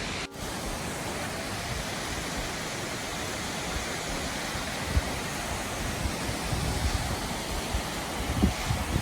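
Waterfall rushing steadily, with a brief break just after the start. Wind thumps on the microphone in the second half.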